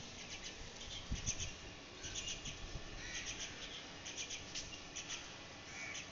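Birds chirping outdoors: many short, high calls repeating throughout, over a faint low rumble.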